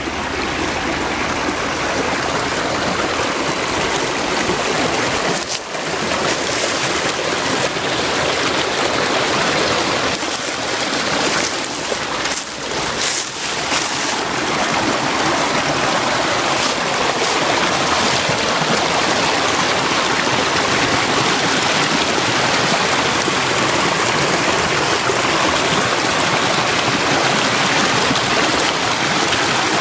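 Creek water rushing steadily over rocks, with a couple of brief louder bumps near the middle.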